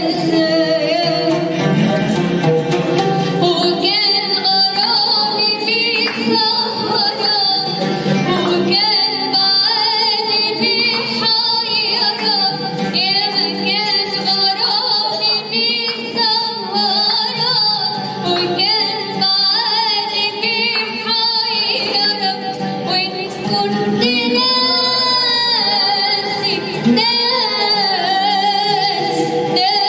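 A woman singing an Arabic song over instrumental accompaniment.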